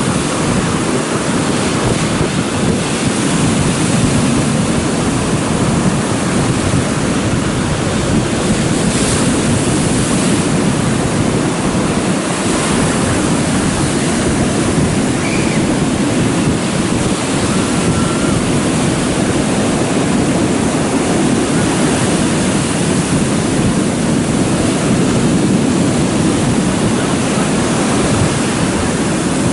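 Stormy sea surf breaking and rushing without pause, with strong wind buffeting the microphone.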